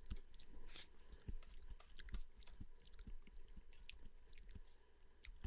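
A person chewing and crunching food close to a headset microphone, with many small irregular crunches and clicks.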